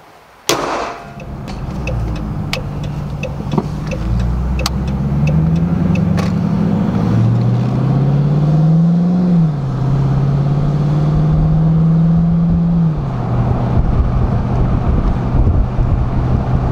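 2014 Dodge Charger R/T's 5.7-litre Hemi V8 heard from inside the car while driving, after a sharp thump about half a second in. The engine note rises as the car accelerates, drops suddenly about nine seconds in as it shifts up, holds steady, then drops again about thirteen seconds in.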